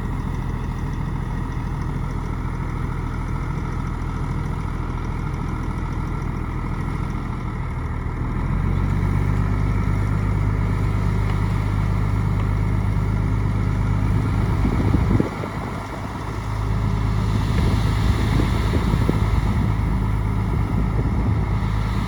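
Bulldozer's diesel engine running steadily, then rising in level and pitch about eight seconds in as it works harder, with a brief drop about fifteen seconds in before it picks up again.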